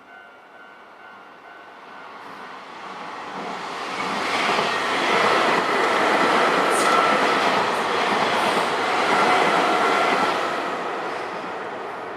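Nankai Main Line electric train passing over a level crossing: it grows louder over the first few seconds, runs past with wheels sounding on the rails, and fades near the end. The crossing's warning bell rings in quick pulses at the start before the train drowns it out.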